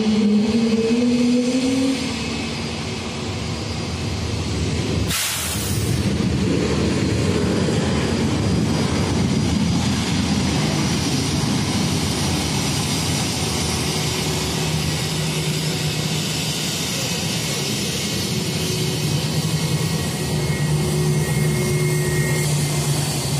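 A loud, steady vehicle running noise heard from on board, with a rising whine in the first two seconds and a short hiss about five seconds in.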